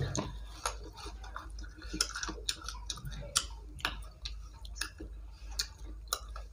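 Faint chewing and lip-smacking with scattered small clicks as people eat rice and chicken curry by hand, over a steady low hum.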